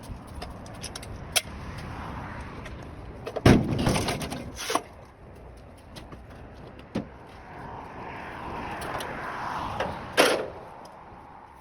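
Scattered knocks and clanks of truck tyre-change work, the loudest about a third of the way in, over steady background traffic noise that swells for a couple of seconds near the end.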